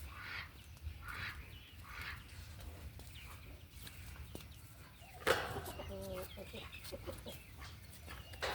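Short animal calls repeating about once a second, then a sudden louder sound about five seconds in followed by a few short pitched calls.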